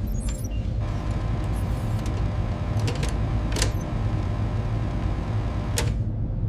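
A steady, low, machine-like rumble with a faint hum, broken by a few sharp clicks. It cuts off suddenly at the end.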